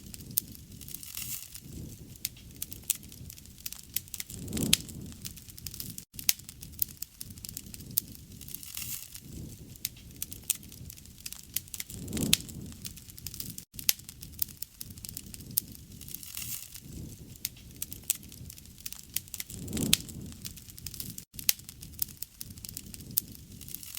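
Bonfire crackling, with frequent sharp pops and snaps over a low rumble of burning wood. The low rumble swells briefly about every seven or eight seconds, and the sound drops out for an instant at a similar spacing, as a short looped recording does.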